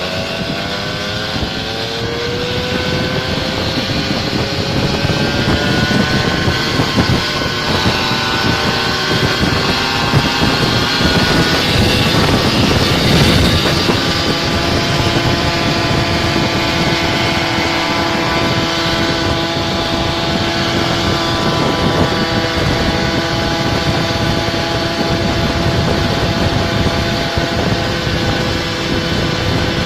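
Small scooter engine running under way, its pitch climbing over the first dozen seconds, then holding steady at cruising speed over a constant rush of noise.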